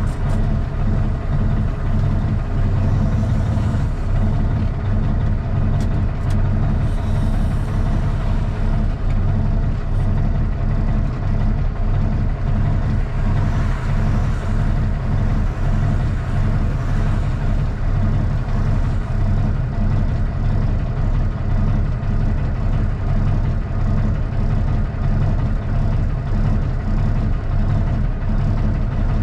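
Straight-piped Cummins ISX diesel in a Kenworth T800 truck running steadily, a deep even drone with no change in engine speed.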